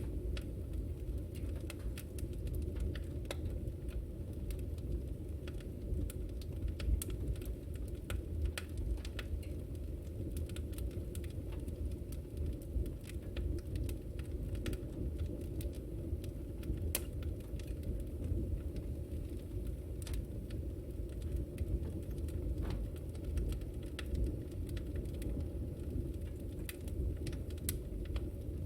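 Wood fire crackling in a fireplace: a steady low rumble of flames with frequent small, irregular pops and sparks.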